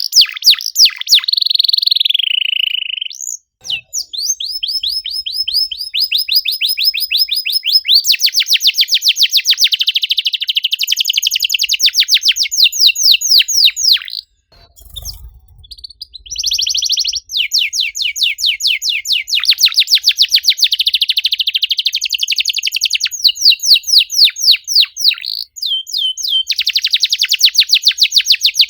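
Domestic canary singing in long rolls of rapid, repeated high chirps, each roll held for several seconds and changing to a new note from roll to roll, with a short break about halfway through.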